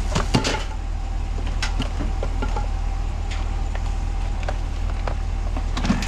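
Gear being handled and set down while a truck is re-packed: a few scattered knocks and clatters over a steady low hum.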